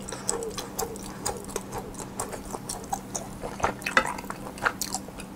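Close-miked chewing of food, with a quick, irregular run of wet mouth clicks and smacks.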